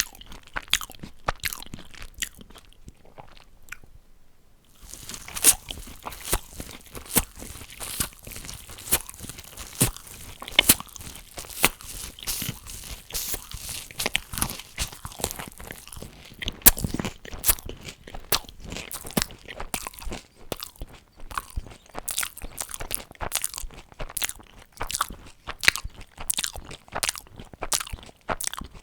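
Close-miked eating: crunchy bites and chewing of fast food, a dense run of crisp crunches. There is a short lull about three seconds in, then the crunching carries on without a break.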